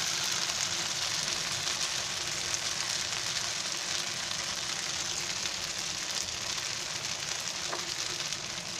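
Paneer masala sizzling in oil in a non-stick pan while it is stirred with a wooden spatula: a steady frying hiss that eases a little toward the end.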